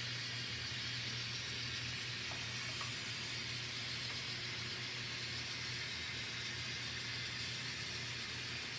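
N scale model diesel locomotive running under power, its sound decoder giving a steady diesel-engine drone with an even hiss.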